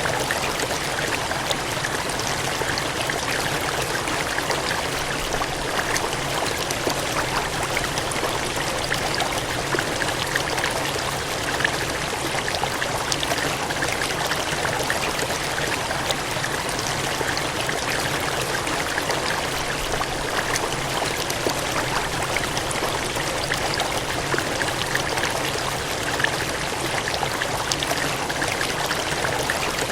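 Gushing, cascading water: a steady, continuous rush with small splashes flecked through it.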